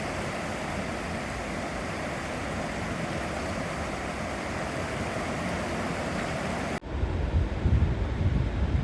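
Fast-running floodwater of a swollen river, a steady rush. About seven seconds in it cuts abruptly to wind buffeting the microphone in low, uneven gusts.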